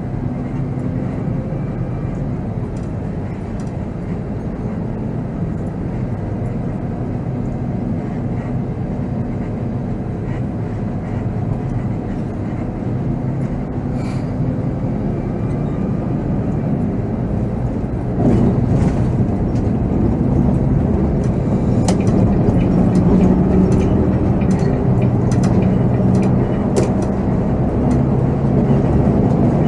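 Volvo B7R coach's diesel engine running under way, with road and cabin noise heard from the driver's seat. About two-thirds in the engine gets louder, and light rattles and clicks from the cabin come in.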